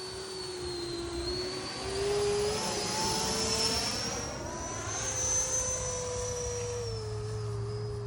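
Freewing Eurofighter Typhoon RC jet's twin electric ducted fans whining in flight. The pitch wavers and swells as the model passes by, loudest around two and five seconds in.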